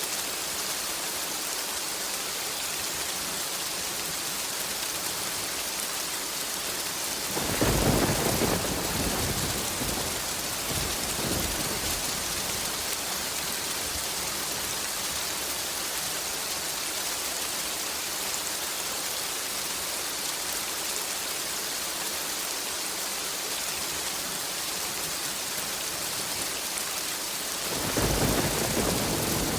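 Steady rain hiss with thunder: a roll of thunder breaks out about a quarter of the way in and rumbles on for several seconds, and another begins near the end.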